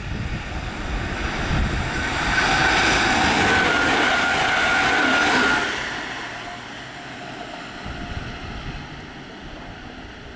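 A passenger train passing through the station at speed: a rushing wheel-and-air noise with a faint steady whine that builds to a peak and drops away sharply about six seconds in. Wind buffets the microphone at the start.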